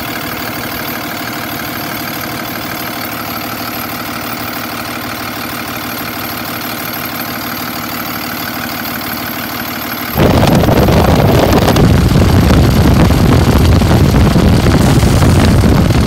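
Ryder truck running with a steady mechanical hum and whine, then about ten seconds in a much louder rushing fan noise cuts in suddenly and holds.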